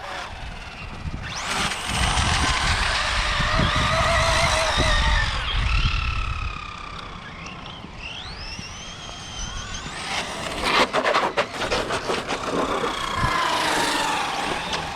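Brushless electric motors of RC cars whining, rising and falling in pitch as the cars accelerate and slow, over the rush of tyres on pavement. About ten to twelve seconds in, a rapid run of clicks and knocks.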